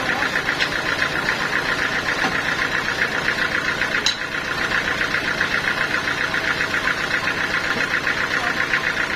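Sawmill machinery running steadily with a fast, even pulse, without letting up.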